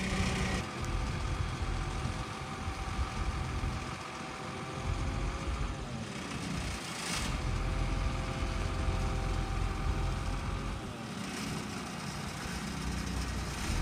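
A truck engine idling steadily over a low rumble. Its pitch dips briefly about six or seven seconds in, then comes back up.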